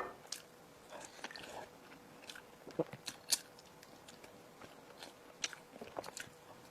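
A person chewing food close to the microphone: scattered soft crunches and wet mouth clicks, with a few sharper crunches about three seconds and five and a half seconds in.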